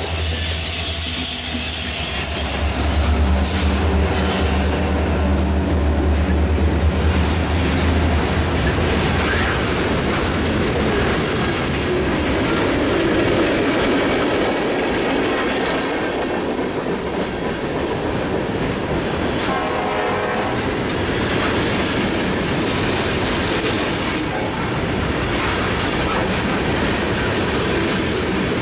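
Diesel freight train passing close: the low steady drone of the locomotives' engines for the first several seconds as the units go by, then the freight cars rolling past with steel wheels rumbling and clattering on the rails.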